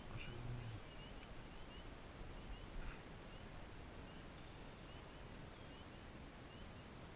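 Quiet outdoor ambience with a small bird's short, high, rising chirps repeated every half second or so, and a faint tick of handling about three seconds in.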